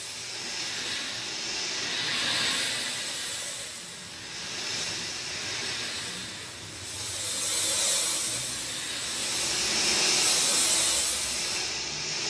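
Steady rain hiss, swelling and easing in slow waves every few seconds.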